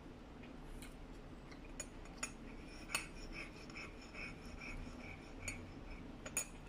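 A person chewing a mouthful of burger: a run of soft chewing sounds, about three a second, from about two seconds in, with a handful of sharp clicks scattered through it.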